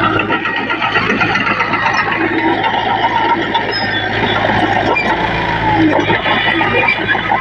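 Heavy diesel earthmoving machinery running steadily, with a constant low engine hum under a dense metallic clatter and a few short squeals.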